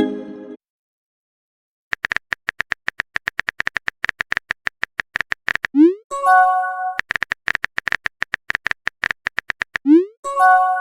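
Phone-keyboard typing clicks, several a second, broken by a short pause near the start. Twice, about six and ten seconds in, a short rising blip and a brief chime of a few held tones sound, the chat app's message sound.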